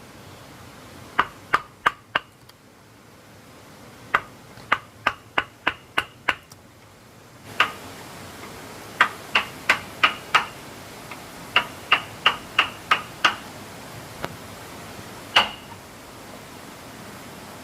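A hammer driving nails into wood: sharp, ringing blows in quick runs of four to seven at about three a second, with pauses between runs and a single last blow near the end.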